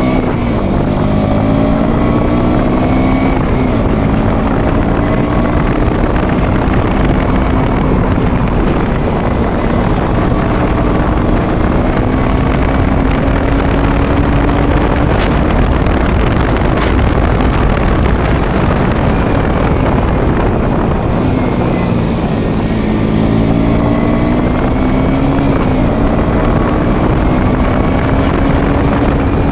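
A motorcycle engine running under way, with strong wind noise on the microphone. The engine note climbs as the bike accelerates in the first couple of seconds and again at about twenty-two seconds, with brief drops between that fit gear changes.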